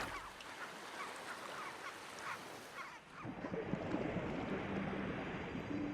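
Short honking animal calls repeating over a steady wash of surf-like noise. About halfway through, the sound cuts to a duller background, and held music notes begin near the end.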